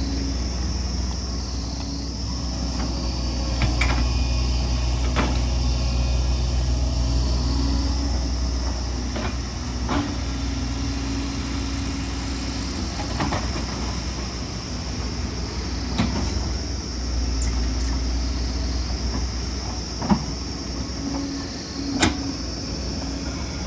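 Excavator diesel engine running steadily at working revs, with scattered sharp metallic knocks and clanks every second or few as the machine works.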